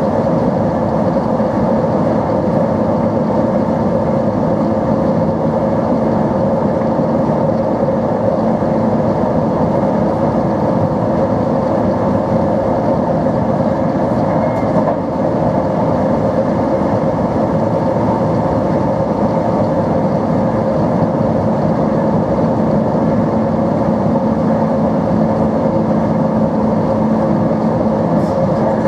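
NMBS/SNCB AM80 'Break' multiple unit running at a steady pace, a constant motor hum with a couple of steady tones over rail noise.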